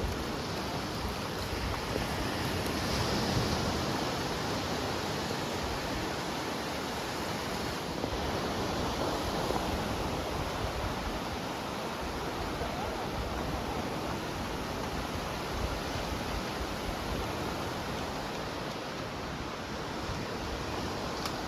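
Steady wash of Atlantic surf breaking on a beach, with wind, swelling slightly about three seconds in.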